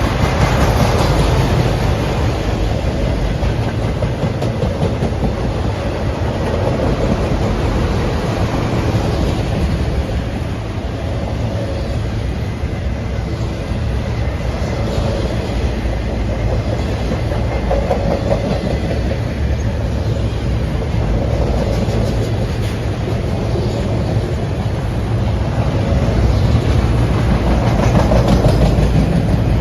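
Norfolk Southern freight train's cars rolling past, with steady wheel-on-rail noise that swells and eases every few seconds.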